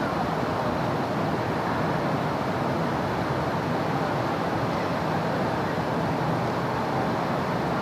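Steady city road traffic: a continuous, even rush of passing vehicles and tyre noise with no single car or event standing out.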